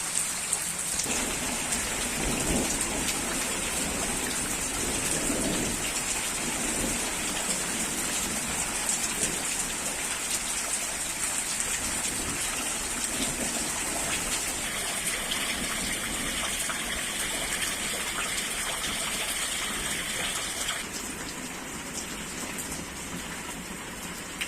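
Steady rain falling, an even hiss that drops in level a few seconds before the end.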